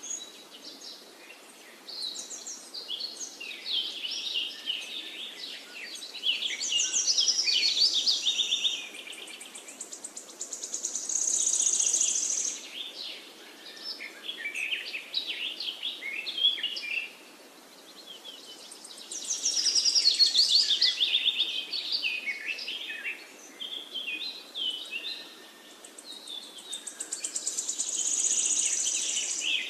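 Birds chirping and twittering in high, busy song, with trills that swell and fade every few seconds.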